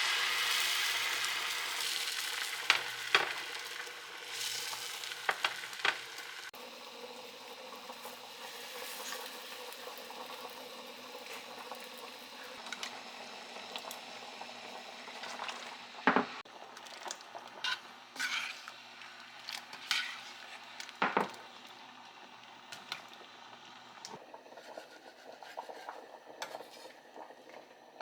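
Food sizzling in a hot pan. The sizzle is loudest as the food first goes in and dies down over the next several seconds, with scattered clacks and scrapes of a utensil stirring it.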